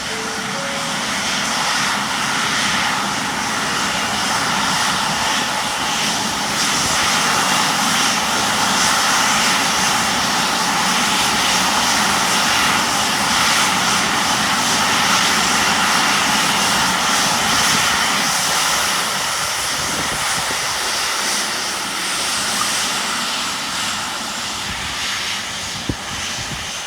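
Airliner jet engines running, a steady rushing noise with a faint whine that grows louder toward the middle and then eases off, as a jet passes.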